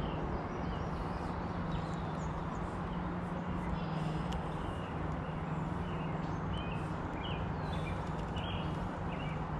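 Small birds chirping now and then over a steady low hum and constant outdoor background noise.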